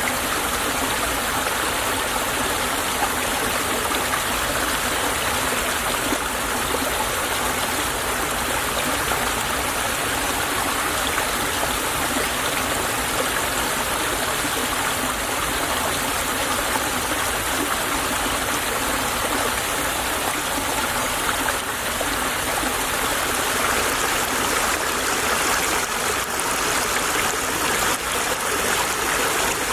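Small stream babbling and trickling over stones in a steady, continuous rush of water.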